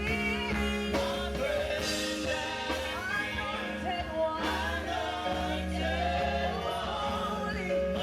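Praise team singing a gospel worship song over instrumental accompaniment, with held chords and sustained bass notes.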